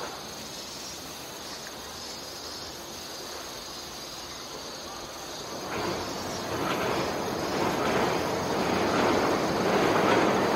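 A train approaching over a steel trestle viaduct. After a few seconds of faint background, its running noise builds from about six seconds in, with a rhythmic clatter of wheels over rail joints growing steadily louder.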